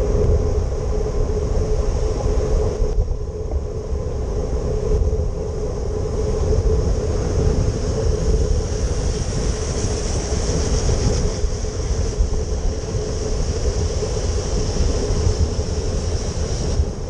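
Steady road noise of cycling on wet city streets in the rain: a fluttering low rumble of wind on the microphone, a steady hum, and a high hiss of tyres and rain on wet pavement.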